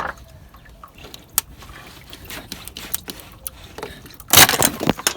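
Stuck rubber radiator hose being tugged and worked off its pipe: scattered small knocks and rubbing, then a loud half-second burst of noise near the end as it comes free.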